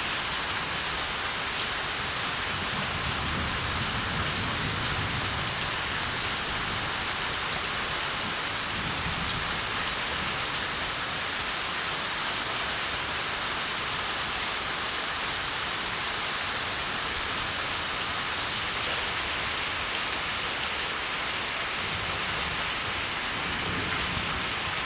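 Steady rain falling, an even hiss of countless drops on surfaces. Low rumbles of distant thunder swell a few seconds in and again near the end.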